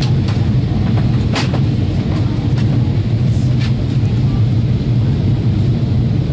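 Airliner cabin drone in flight: the steady low rumble of the jet engines and airflow, with several short sharp clicks scattered through it.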